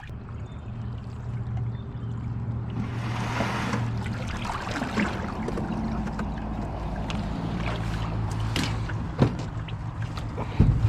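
Small one-man pond boat under way on the water: a steady low hum with a rush of water noise about three seconds in and scattered knocks.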